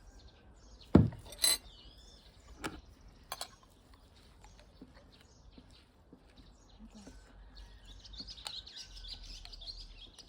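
A sharp knock about a second in, followed by a few lighter clinks, then small birds chirping rapidly over the last couple of seconds.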